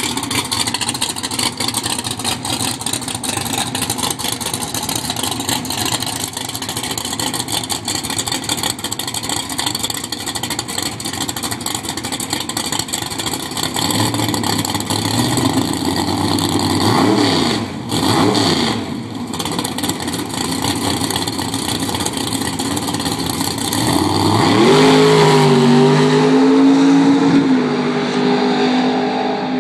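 Pro Stock Ford Thunderbird drag car's V8 running with a rough, lumpy sound. It is blipped twice about halfway through, then revved up sharply and held at high revs for a few seconds before easing off near the end.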